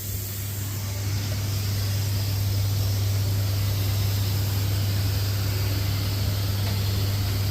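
Steady hiss of an air spray gun spraying paint, over a constant low hum.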